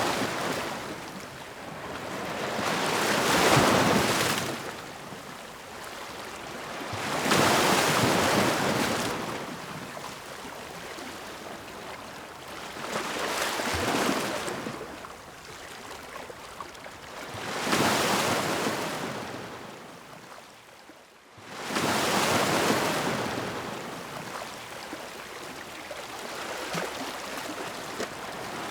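Ocean waves breaking and washing up the shore, a rush of surf that swells and fades about every four to five seconds. About two-thirds of the way through a short lull is cut off by a sudden new wave.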